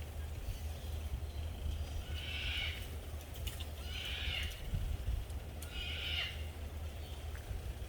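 Three short, harsh animal calls, about two seconds apart, over a steady low rumble.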